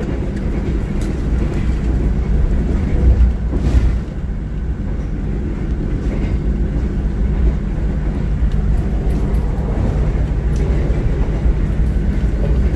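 Steady low rumble of a moving passenger train, heard from inside the carriage, with a brief louder swell about three seconds in.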